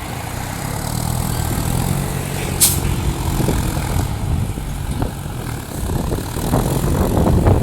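Heavy diesel machinery running steadily with a low engine drone, with one sharp click about two and a half seconds in.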